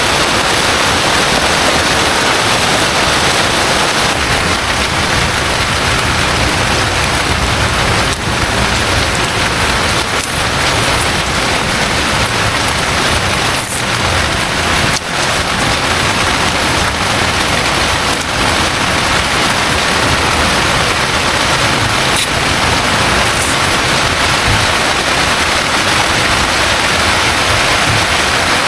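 Heavy rain falling steadily and loudly, with a few sharp taps of single drops here and there.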